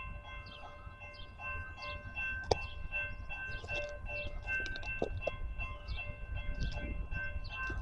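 Railroad crossing warning bell ringing about twice a second, with a faint low rumble underneath, signalling an approaching train.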